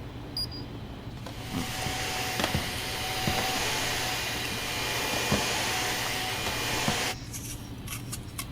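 A steady rushing hiss with a faint steady whine in it, coming in about a second in and cutting off sharply about seven seconds in, with a few light knocks over it.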